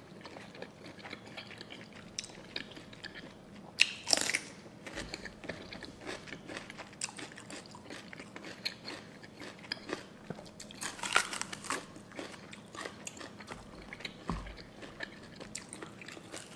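Chewing and crunching a mouthful of spicy papaya seafood salad, with short crisp bites all through and louder crunches about four seconds in and again around eleven seconds.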